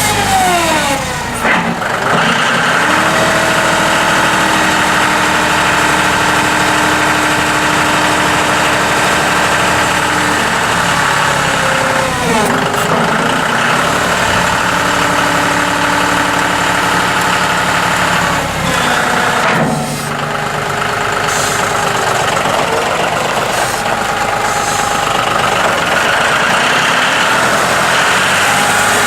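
John Deere 5055E tractor's three-cylinder turbocharged diesel running steadily. Its engine speed drops and rises a few times.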